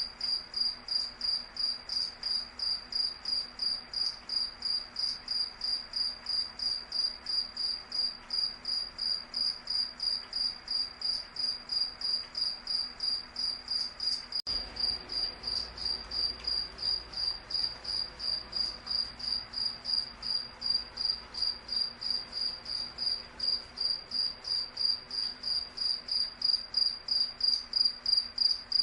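A cricket chirping steadily in a fast, even rhythm of about three high-pitched chirps a second, each at the same single pitch.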